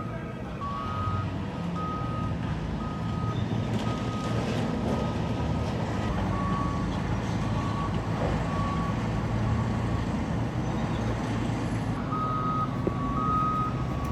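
Heavy military bulldozer's diesel engine running with a steady low rumble, while a reversing alarm sounds in short regular beeps. The beeps stop for a few seconds twice and start again near the end.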